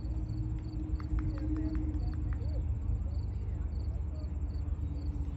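Insects chirping in a steady pulsing rhythm, several pulses a second, over a loud low rumble and a steady hum, with a few short clicks about a second in.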